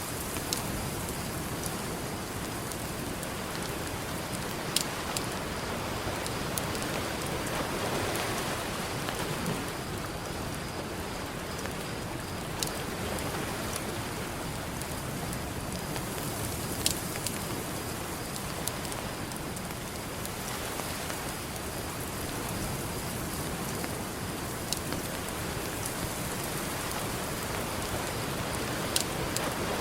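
Campfire crackling, with a few sharp pops, over the steady wash of ocean surf.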